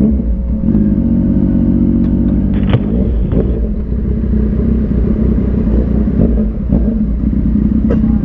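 Motorcycle engine running with a steady low rumble. A clear engine tone sits over it for about two seconds, starting about a second in.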